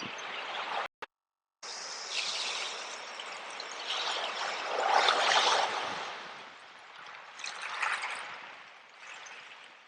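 Sea waves washing in and drawing back, swelling to a peak about five seconds in and again near eight. A brief cut to dead silence about a second in.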